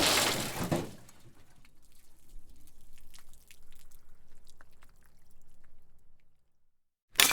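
A crashing impact, then scattered small ticks and clicks that die away over the next few seconds.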